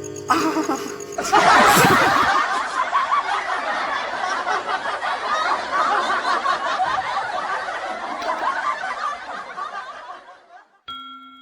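Several people laughing hard together for about nine seconds, starting a second or so in and dying away, after a last bit of guitar at the start. A short ringing tone sounds near the end.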